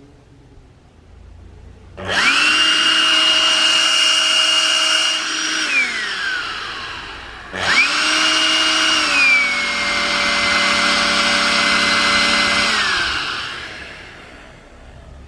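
Makita CL181FD cordless vacuum cleaner, fitted with cyclone attachments, switched on twice. Each time its motor whines up to speed within a moment, runs for a few seconds and winds down with a falling pitch. During the second run the whine drops to a lower pitch about a second after start-up and holds there until it is switched off.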